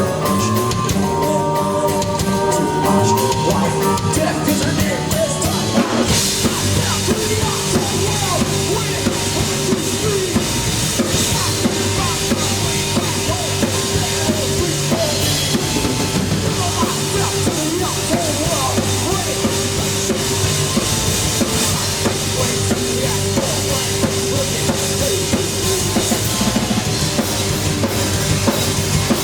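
Live rock band playing loudly: a passage of held notes, then the drum kit and full band come in about six seconds in and play on.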